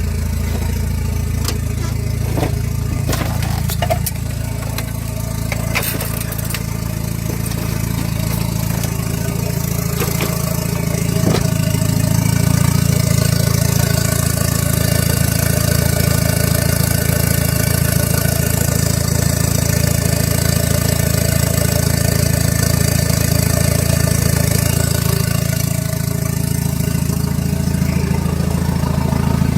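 Hyundai D4EA 2.0-litre common-rail diesel engine running at a steady idle, with a few sharp clicks in the first dozen seconds.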